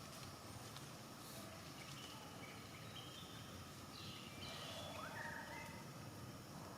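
Faint outdoor background hiss with a few short high-pitched animal calls in the middle, one of them rising in pitch.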